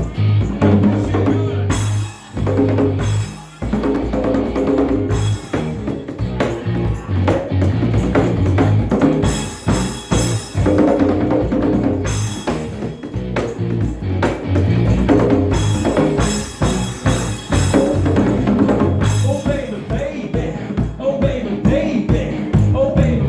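Live band playing upbeat rock music: a drum kit with kick and snare over a pulsing low bass line. The band stops short for a moment about two seconds in, then comes back in.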